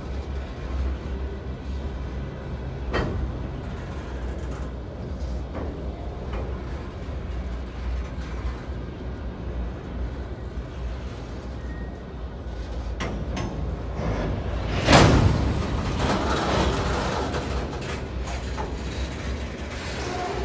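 Coal train's hopper cars rolling past: a steady low rumble of wheels on rail with a few knocks, and one loud sharp bang about fifteen seconds in.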